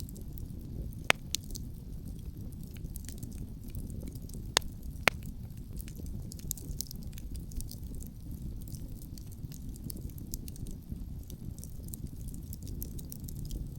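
Wood campfire crackling with many small snaps and three loud sharp pops, one about a second in and two close together around four and a half to five seconds, over a steady low rumble of wind.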